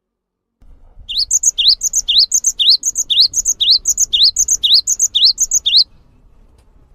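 A songbird repeating one short phrase about twice a second, roughly ten times over: a quick rising whistle followed by higher, thinner chips. It stops abruptly about six seconds in.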